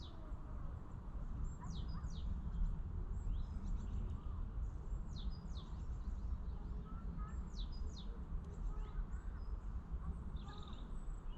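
Wild birds singing and calling, with repeated short high notes that sweep quickly down in pitch, over a steady low rumble.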